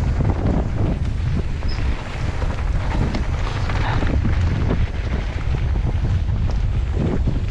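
Wind buffeting an action camera's microphone as a mountain bike descends at speed: a loud, steady rumble with a higher rushing hiss that swells about three to four seconds in.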